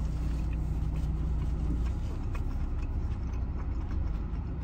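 Close-up chewing of a taco, with small wet mouth clicks scattered through it, over a steady low rumble of the car cabin.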